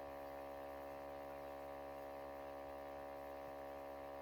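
Steady electrical hum and buzz, a faint unchanging drone of many steady tones.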